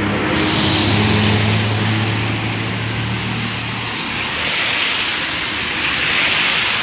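Road traffic on a wet road: a large vehicle's engine hums steadily, then fades about two-thirds of the way through, under the hiss of tyres spraying water, which swells as vehicles pass.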